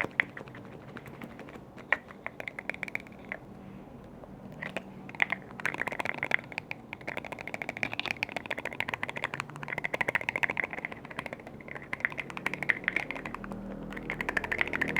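Light tapping and clicking on containers and lids: a few scattered taps at first, then a dense, fast run of small clicks from about five seconds in.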